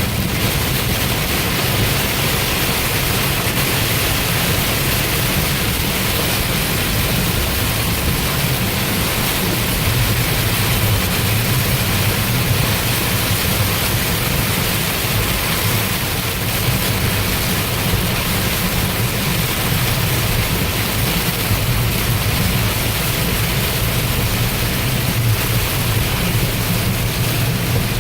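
Car driving through heavy rain: a steady hiss of rain and wet road noise over a low, even drone from the car.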